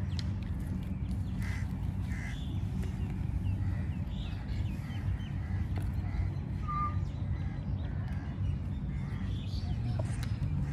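Birds calling: short crow-like caws scattered through, with one brief higher whistled note about seven seconds in, over a steady low rumble.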